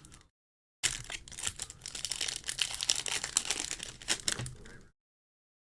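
Foil booster-pack wrapper crinkling and tearing as a Pokémon card pack is opened: a dense run of small crackles lasting about four seconds, starting about a second in and cutting off abruptly.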